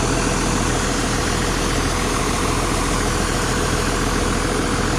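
Tractor diesel engine running steadily at raised throttle, with an even, unchanging hum.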